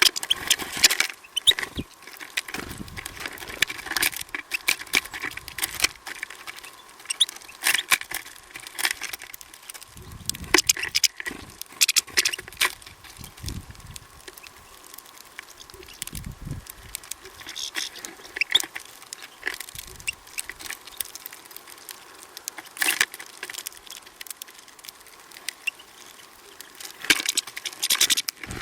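Small birds feeding at a bird feeder: irregular clicks, taps and scratchy rustling of pecking and scrabbling at seed, coming in clusters.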